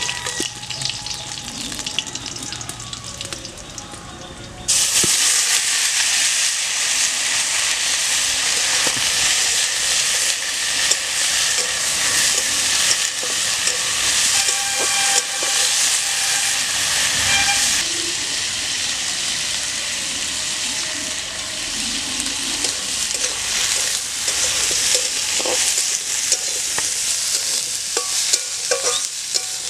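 Oil sizzling in a wok with dried red chillies, then a sudden loud sizzle about five seconds in as chopped green figs (dumur) and potato go into the hot oil. The frying keeps on, easing a little later, while a metal spatula stirs and scrapes the pieces around the pan.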